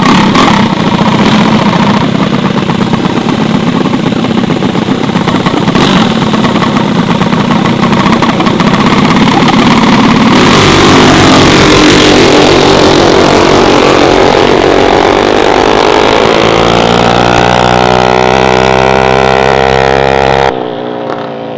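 Gas mini bike engines running hard during a street race. The engine note climbs steadily in pitch over the last few seconds as a bike accelerates, then cuts off abruptly near the end.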